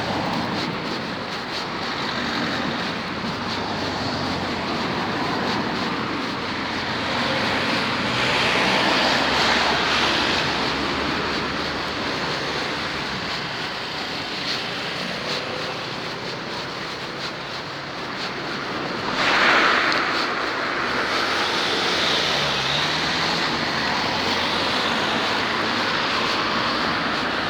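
Steady road traffic noise with vehicles passing, swelling louder about a third of the way in and again, more sharply, about two-thirds in.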